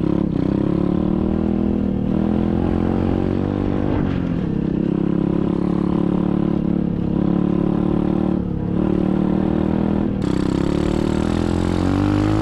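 SSR 125cc dirt bike's single-cylinder four-stroke engine running under way. Its pitch dips and climbs again about four, eight and ten seconds in as the throttle is rolled off and back on.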